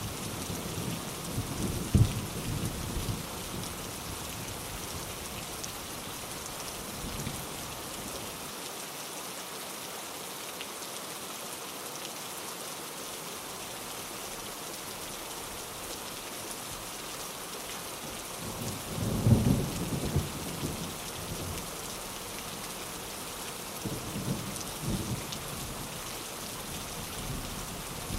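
Steady heavy rain with rolling thunder: a sharp crack about two seconds in, and the loudest rumble about two-thirds of the way through, followed by a smaller one a few seconds later.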